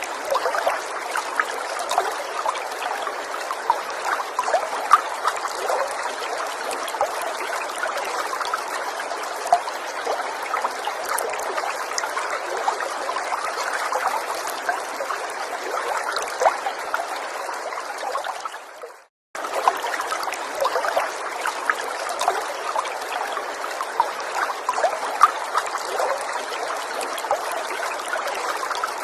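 A small stream trickling steadily, with many small splashes. It dips and cuts out for a split second about two-thirds of the way through, then carries on.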